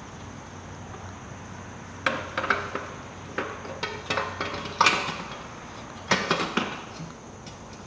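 Metal parts and tools being handled while fitting a dirt bike's exhaust pipe: several short bursts of clinks and clanks with pauses between them.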